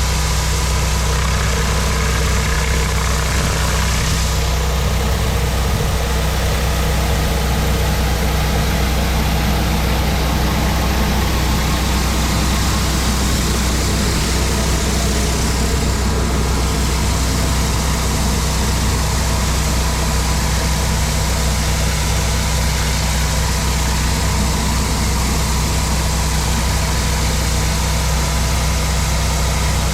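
Engine of a pressure washer running steadily, with the hiss of high-pressure water spraying onto concrete. The hiss changes in strength a couple of times.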